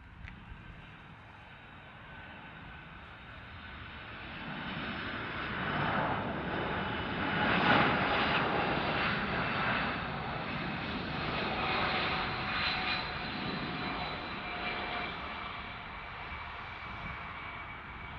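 Large jet airliner passing overhead on its landing approach. The engine noise swells to a peak about seven or eight seconds in, then slowly fades, and its whine drops in pitch as the plane moves away.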